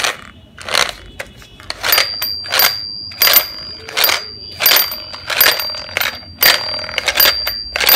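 Toy helicopter clicking and rattling in a quick train of sharp strokes, about two a second. A thin, steady high-pitched tone joins about two seconds in.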